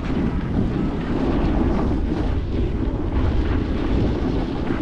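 Strong blizzard wind buffeting the microphone: a loud, continuous, gusting rumble.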